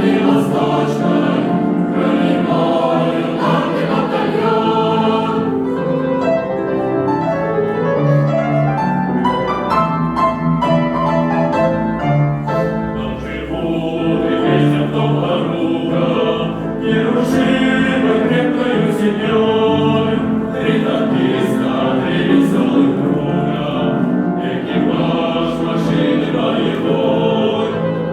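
A choir singing a song together, many voices in harmony with the melody moving steadily from note to note.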